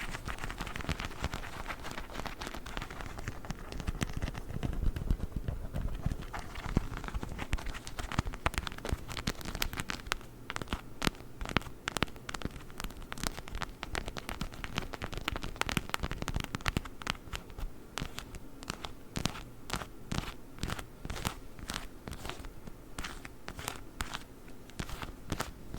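A fake witch-finger toy worked close to the microphone. It rustles and scratches at first, then from about eight seconds in gives a quick, irregular run of sharp clicks and taps.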